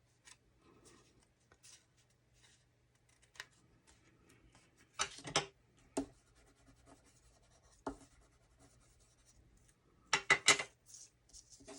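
Paper and cardstock being handled and rubbed on a craft table: faint scattered rustles and light taps, with louder bursts of rustling about five seconds in and again about ten seconds in.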